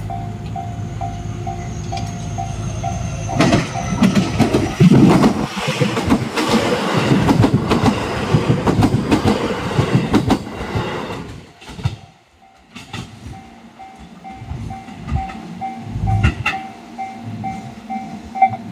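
Japanese level-crossing bell ringing in a steady repeated ding, about two to three times a second, as a JR West 223 series electric train runs past close by for about seven seconds, its wheels clattering over the rail joints. After the train has gone, the crossing bell is heard dinging again.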